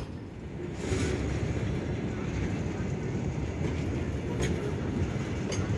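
A train running past with a steady low rumble and a few sharp clicks from the wheels and cars.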